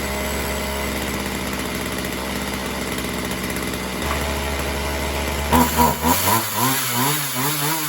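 Poulan Pro 4620 two-stroke chainsaw engine idling steadily, then about five and a half seconds in its speed starts surging up and down several times a second, running unevenly while its carburettor is being adjusted.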